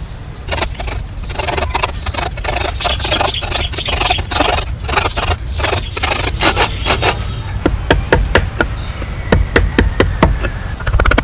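Hand work on a hard material: quick scraping strokes for the first several seconds, then a run of separate sharp knocks and taps.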